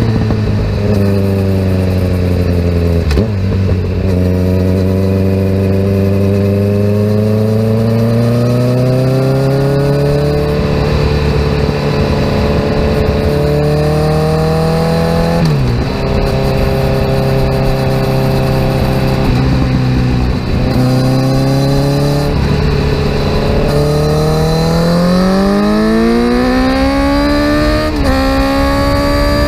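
Kawasaki Z900 inline-four with a full aftermarket exhaust, riding along and pulling through the gears. The engine note climbs slowly, drops suddenly at each upshift (a few seconds in, about halfway, and near the end), and rises steeply just before the last shift.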